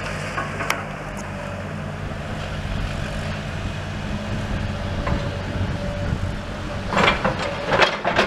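An engine running steadily with a low hum, with two short bursts of clatter near the end.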